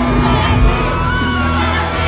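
Loud live concert music with heavy bass, over a crowd cheering and shouting, with some held voices above.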